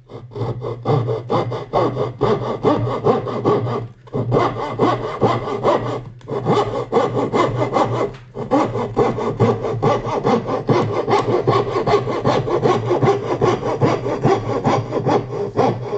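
Hand fret saw, its blade set at an angle, cutting through a wooden board in quick, even strokes, about four a second, with short pauses about four, six and eight seconds in.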